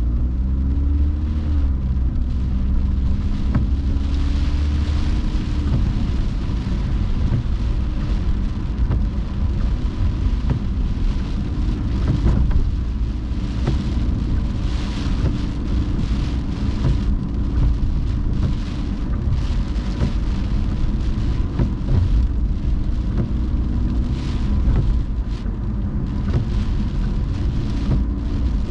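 Car driving through rain on a wet road: a steady low road rumble and engine hum under the hiss of rain and wet tyres, with scattered drops ticking on the car. The engine note rises briefly about a second in.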